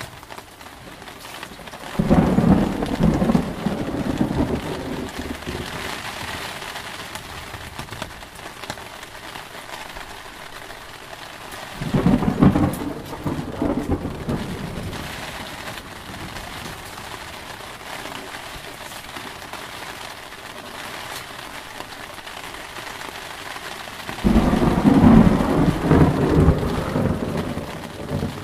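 Steady heavy rain with three rolls of thunder: one about two seconds in, one near the middle and one near the end, each starting suddenly and rumbling away over a few seconds.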